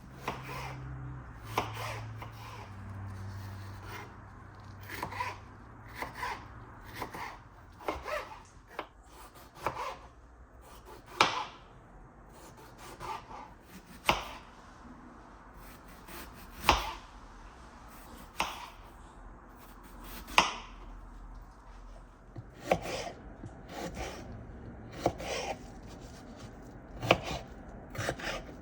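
Knife chopping on a wooden cutting board: uneven knocks of the blade, a few sharper and louder than the rest.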